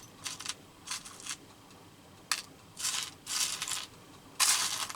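Small metal brads clinking and rattling as they are sorted through by hand, in several short bursts, the loudest near the end.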